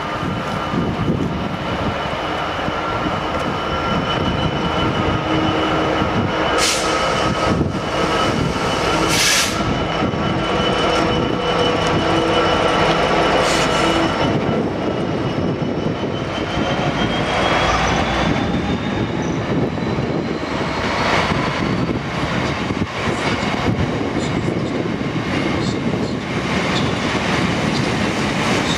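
Freightliner Class 66 diesel locomotive running past close by, its engine under power, followed by a long rake of open box wagons rolling through. The wheels give steady high squealing tones, with a few sharp clicks over the track joints.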